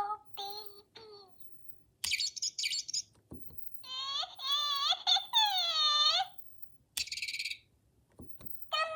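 High, rapid bird-like chirping about two seconds in and again briefly near seven seconds, with a Furby Furbling's high electronic babbling voice swooping up and down in between, from about four to six seconds.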